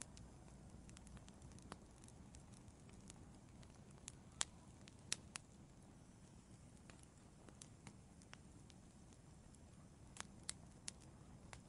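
Wood fire in an outdoor fireplace crackling faintly: scattered sharp pops over a low steady hiss, with a few louder pops about four to five seconds in and again near the end.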